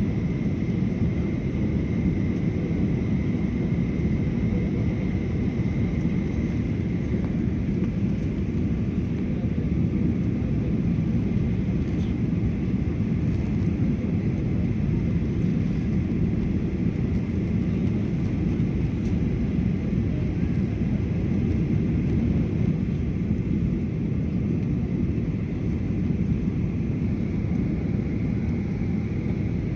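Steady low rumble of an airliner cabin in flight, from engine and airflow noise, with a faint steady whine that fades after several seconds and comes back near the end.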